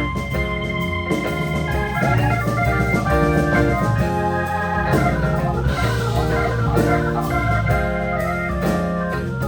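A live organ-led jazz band playing an instrumental passage: sustained organ chords that change about once a second over low bass notes, with drums keeping time.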